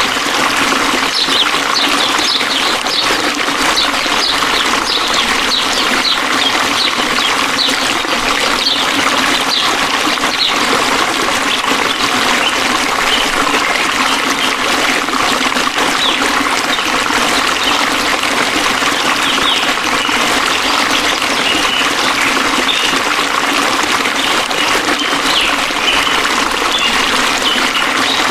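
Flowing water trickling steadily, with many short high plinks scattered throughout.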